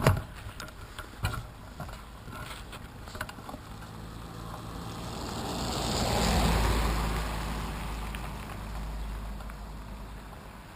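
A passing vehicle, its noise swelling to a peak about six seconds in and then slowly fading, after a few knocks and clicks in the first seconds.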